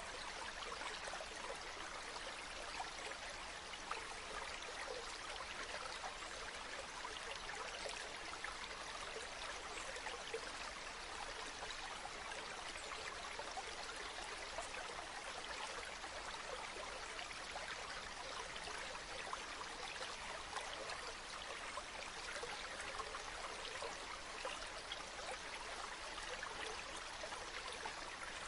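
River water flowing and babbling steadily over stones, a continuous rushing with many small splashes and trickles.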